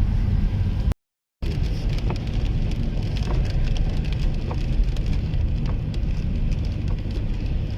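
Steady road and engine rumble inside a moving car, with scattered ticks of raindrops hitting the windscreen and roof. The sound cuts out completely for about half a second near the start.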